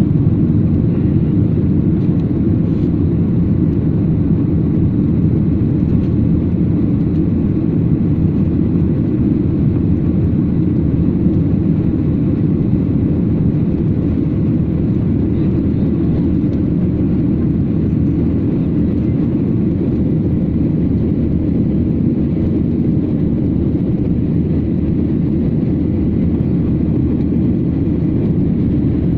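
Airliner cabin noise during takeoff: a steady, deep rumble of engines and airflow that holds even throughout.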